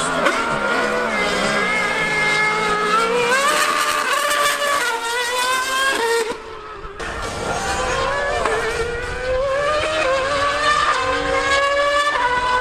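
High-revving racing engines at full throttle, the pitch climbing and then dropping back again and again as they shift up through the gears. The sound dips briefly about six seconds in.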